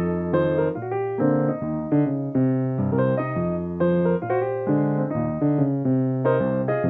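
Solo piano playing an unbroken run of struck notes and chords.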